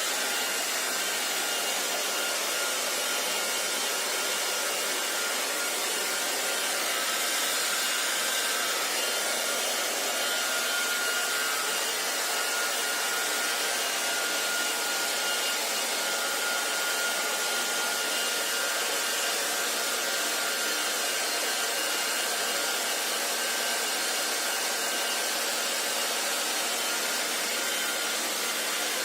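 Hair dryer running steadily: an even blowing hiss with a faint whine on top, unchanging throughout.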